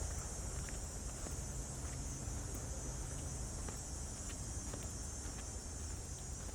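Steady, high-pitched chorus of crickets trilling without a break, over a low background rumble.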